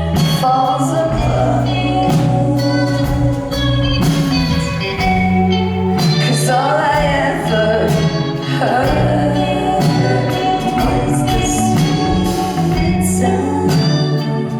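Live band music with singing: sustained bass notes under a wavering sung melody, with regular drum hits.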